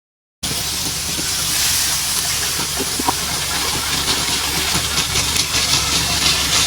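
Steady hissing noise with a low rumble underneath, starting abruptly about half a second in.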